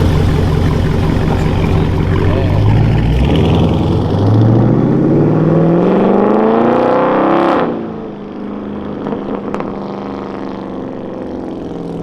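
Straight-piped Dodge Scat Pack's 392 Hemi V8 accelerating hard, its revs climbing steadily for about four seconds, then cutting off abruptly to a quieter, steady exhaust drone with a couple of sharp pops.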